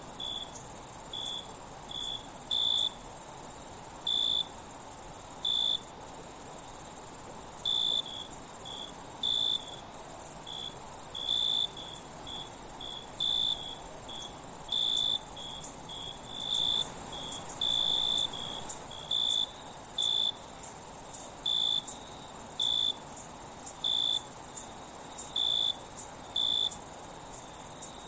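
Night insect chorus: a continuous high-pitched insect trill with crickets chirping over it in short pulses at uneven intervals, about one to three a second. The sound drops out for a split second a few times.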